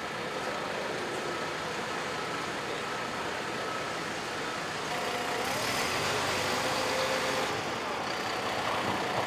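Tractor assembly plant floor noise: a steady mix of machinery hum with faint tones, rising to a louder hiss from about five and a half to seven and a half seconds in.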